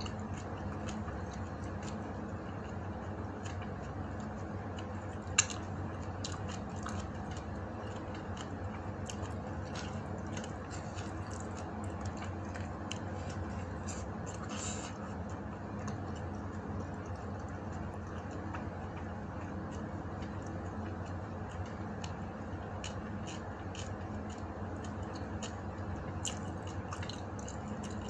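Close-up eating sounds of a person chewing rice and dried fish eaten by hand: faint scattered mouth clicks and soft squishes, with one sharp click about five seconds in. A steady low hum runs underneath.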